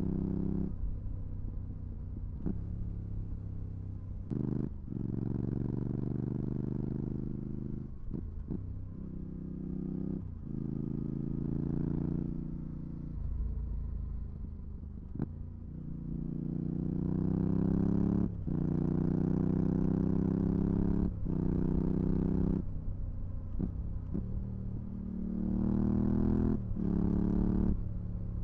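Yamaha R7's parallel-twin engine through a full MIVV GP Pro exhaust with dB-killer fitted, riding hard. It climbs in pitch and is cut by a brief break every few seconds as it shifts up through the gears, eases off for a few seconds in the middle, then pulls hard again.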